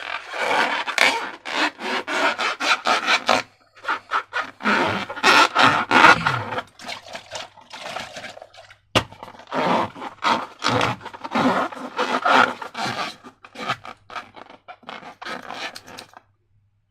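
Slime and rubber balloons being worked by hand, making irregular scraping and rubbing strokes. A sharp click comes about nine seconds in, and the sounds stop shortly before the end.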